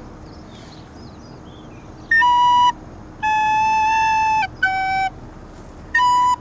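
Wind instrument with a pure, whistle-like tone playing four held notes with short gaps between them, starting about two seconds in. The first three each step lower, and the fourth returns to the opening pitch.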